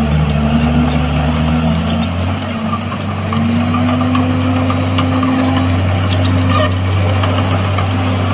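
Heavy construction machinery's diesel engine running steadily, its pitch dipping briefly about two seconds in and then rising again, with a few light clicks and clanks.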